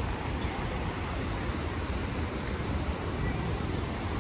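Steady street traffic noise with gusts of wind buffeting the microphone, a low rumble that rises and falls unevenly.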